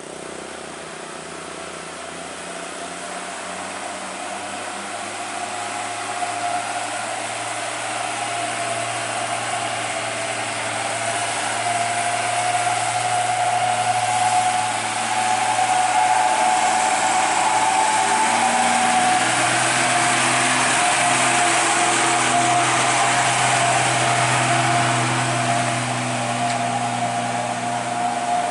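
Old truck's engine labouring on a steep uphill climb, a steady drone with a high whine over it, growing louder through the first half.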